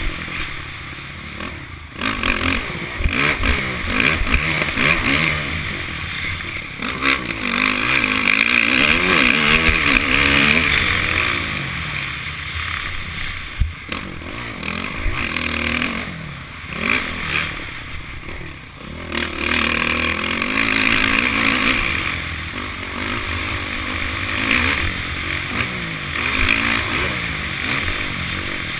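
Honda CRF450 motocross bike's single-cylinder four-stroke engine revving up and down repeatedly while racing, with heavy wind rush on the onboard microphone and occasional short knocks.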